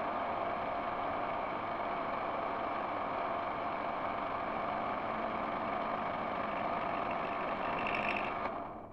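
Steady machine noise that dies away quickly near the end, leaving a low hum.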